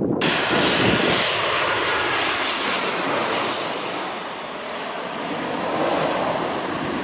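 Jet airliner passing low overhead on its landing approach: a loud rush of jet engine noise with a high whine from the engine fans. It starts abruptly, peaks about three seconds in, then slowly eases off.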